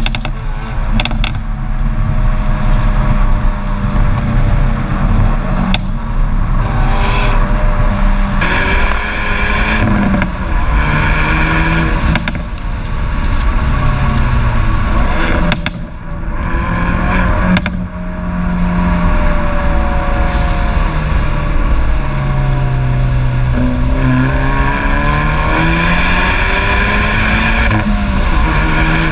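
Hyundai i30N Performance's 2.0-litre turbocharged four-cylinder revving up and falling back again and again through the gears, with a few sharp cracks from the exhaust.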